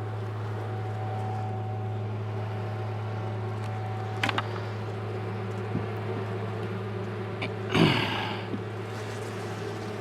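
Steady low hum of a honeybee colony at an open hive. There is a sharp click about four seconds in and a short, louder scrape or bump near the end.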